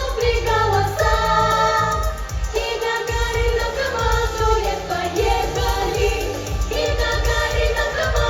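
Children's vocal ensemble singing a pop song over a backing track with a steady low bass beat.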